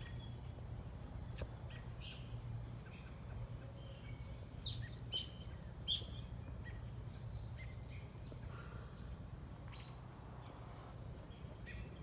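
Wild songbirds chirping and calling: short, sharp chirps and a few brief whistled notes, scattered irregularly, over a steady low hum.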